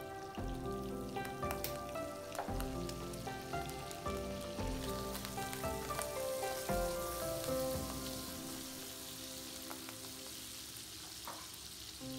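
Chopped bacon and sliced button mushrooms sizzling in oil in a frying pan while being stirred. Background music plays over the first half, then fades, and the sizzle takes over.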